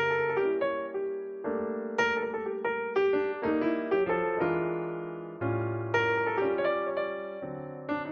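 Background music: solo piano playing slow chords and melody notes, each note struck and left to ring and fade.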